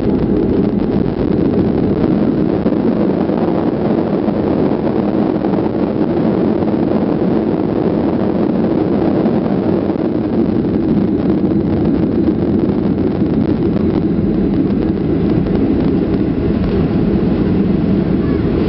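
Steady cabin noise inside a Boeing 737-400 airliner: engine and airflow noise heard from the passenger cabin.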